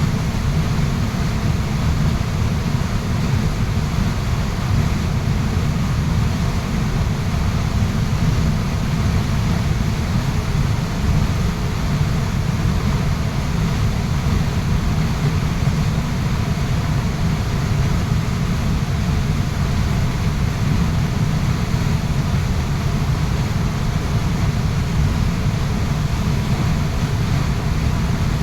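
Waterfall's steady rush of falling water: an even, unbroken noise with a heavy low rumble.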